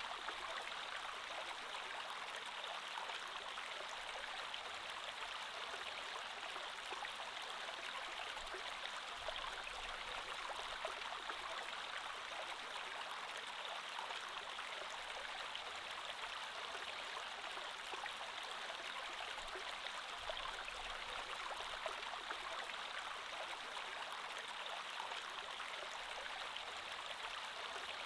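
Creek water flowing steadily over stones, a continuous babbling rush with small trickles and splashes.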